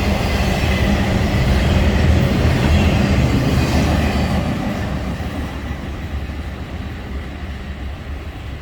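CSX freight train cars rolling past on the rails with a steady rumble and rattle, fading away over the second half.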